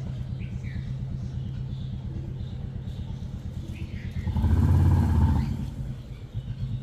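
A motor vehicle engine runs with a steady low hum and swells louder for about a second just past the middle. Faint short bird chirps come through over it.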